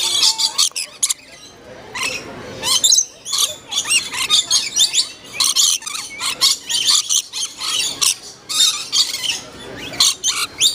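A flock of lorikeets screeching and chattering close by, many short shrill calls overlapping as they squabble over a cup of nectar.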